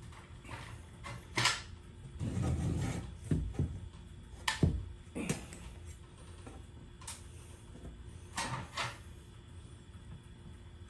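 Scattered knocks and clunks of hardware being handled during garage door installation work, with a longer scraping rumble about two seconds in.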